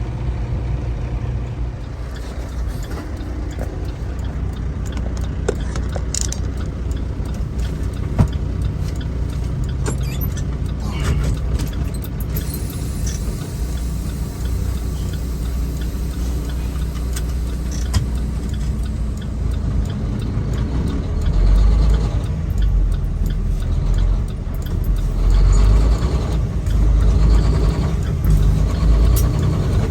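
Semi truck's diesel engine running as the truck drives, a steady low hum with a few scattered clicks; the engine sound grows louder in the last several seconds.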